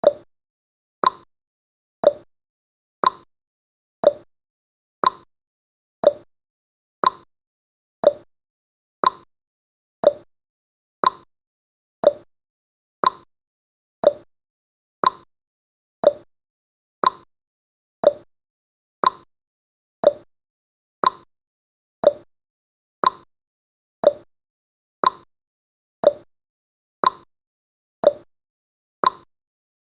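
Clock-ticking sound effect of a countdown timer: short, sharp ticks about twice a second, alternating between a higher and a lower click like a tick-tock, with silence between them.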